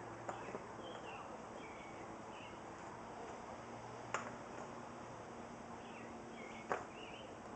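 Birds chirping over a low steady hum, with two sharp knocks, one about four seconds in and one near the end.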